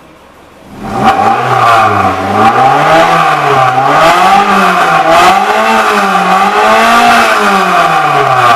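Toyota 3S-GE BEAMS 2.0-litre four-cylinder engine running, coming in loudly about a second in and then revved up and down repeatedly with throttle blips, its pitch rising and falling roughly once a second.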